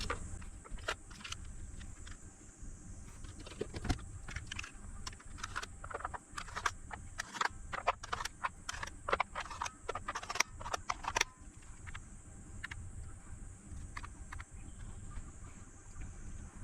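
Irregular light clicks and taps of test probes being touched to battery cells while their internal resistance is measured, thinning out about eleven seconds in. A faint steady high whine runs underneath.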